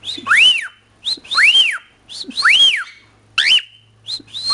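Male cockatiel's flirt whistle, a courtship call aimed at the female: a short rising chirp, then a clear whistled note that arches up and falls back, repeated about once a second.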